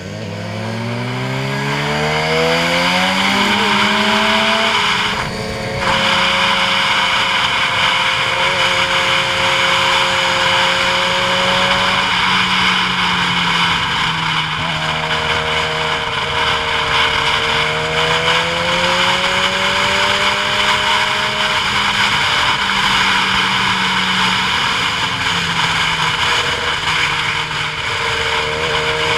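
Motorcycle engine pulling up in pitch for the first few seconds and shifting gear about five seconds in. It then runs at a fairly steady speed with small rises and falls, under a steady rush of wind.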